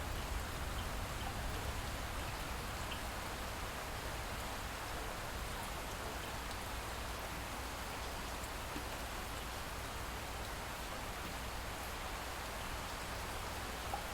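Light rain falling steadily: an even hiss with a few faint, separate drop ticks.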